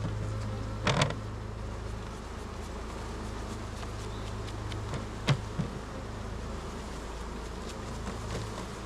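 Honeybees buzzing steadily around an open hive, with two short sharp knocks, one about a second in and one a little past the middle.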